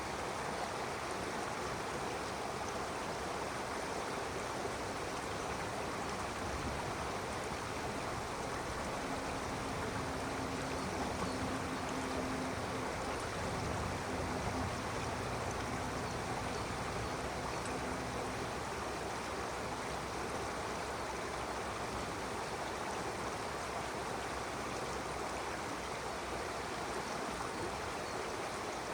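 Steady rushing and babbling of a flowing stream.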